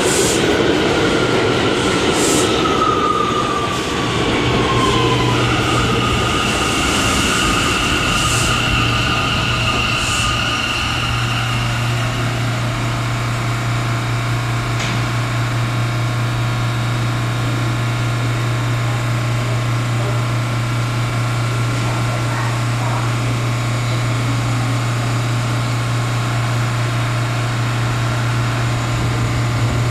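R179 subway train's motors whining down in pitch as it brakes to a stop, then the stopped train giving a steady hum from its onboard equipment, with a few short clicks in the first ten seconds.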